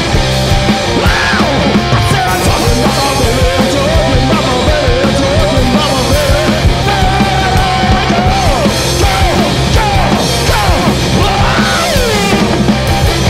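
Garage punk-blues duo playing loud, driving rock live, with a lead line that bends up and down in pitch and no clear singing.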